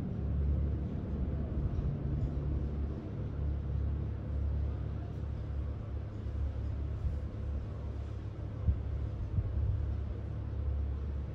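Steady low rumble of the cruise ship Mein Schiff 3 under way as it leaves port, with an even hiss over it and one brief knock about three-quarters of the way through.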